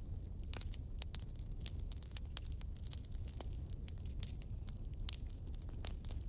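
Campfire burning with irregular sharp crackles and pops, several a second, over a steady low rumble.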